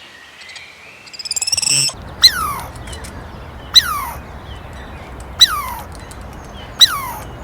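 An animal giving four short, high cries about a second and a half apart, each falling steeply in pitch, after a brief burst of rapid bird-like chirping.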